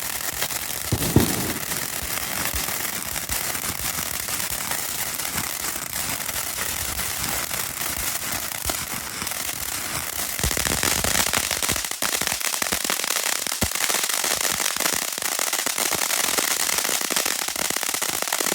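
TNT Spirit of Freedom firework fountain burning: a continuous hissing spray thick with crackling, with one sharp pop about a second in. The hiss grows brighter and louder about two-thirds of the way through.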